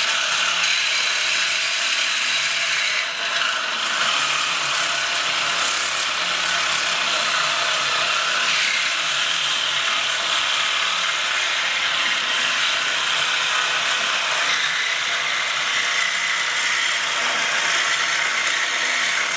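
A power saw cutting steadily through metal exhaust pipe.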